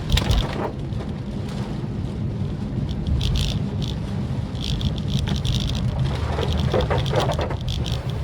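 Maruti Suzuki Swift Dzire driving in the rain, a steady low rumble of road and engine with scattered short, light ticks of patter over it.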